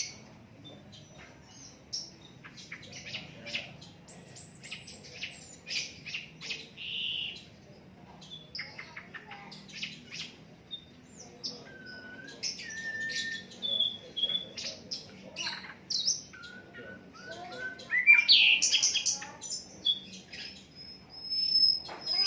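Sikatan londo flycatcher singing a varied, rapid run of short chirps, clicks and brief whistles, loudest and busiest a little after halfway through.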